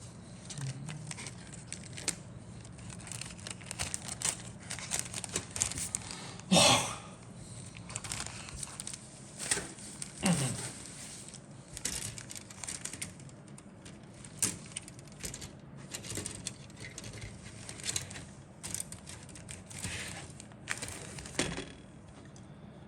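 Plastic kit packaging crinkling and rustling in irregular handfuls as the contents of a plastic model kit box are handled, with a louder crinkle about six and a half seconds in and another around ten seconds.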